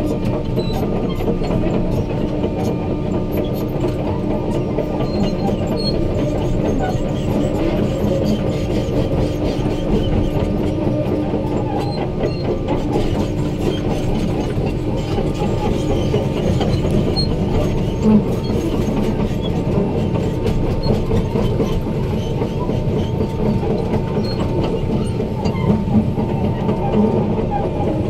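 Hydraulic excavator's diesel engine running steadily, with frequent light metallic clicks and knocks over it.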